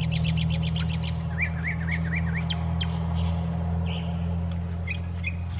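Small birds chirping, with a quick series of short rising notes a little over a second in and a few more near the end, over a loud, steady low motor hum. A fast run of clicks, about nine a second, fills the first second.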